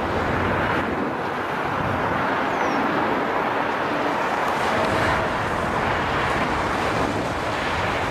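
Jet airliner engines heard from the ground, a steady broad rush with a faint whine coming in about five seconds in.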